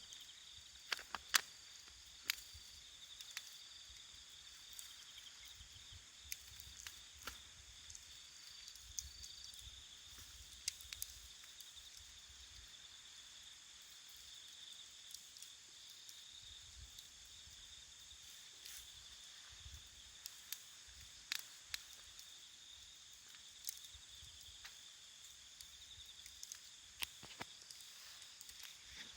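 Wood fire burning with scattered sharp crackles and pops, over the steady high trilling of night insects.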